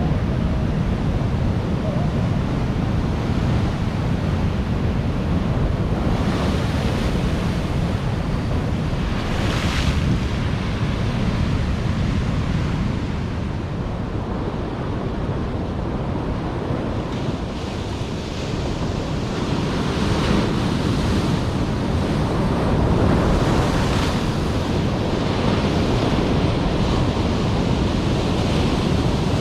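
Ocean surf, with waves breaking and hissing every few seconds over a heavy, steady rumble of wind on the microphone.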